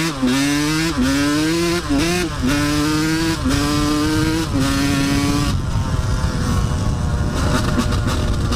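2000 Yamaha YZ125 two-stroke dirt bike engine accelerating through the gears: the pitch climbs, drops sharply at each upshift and climbs again, about five shifts, then the engine settles to a steadier, rougher sound after about five seconds.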